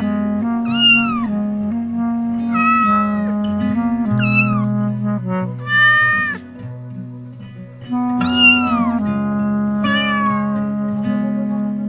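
A cat meowing repeatedly, about six separate meows, several falling in pitch at the end, over background music of held notes.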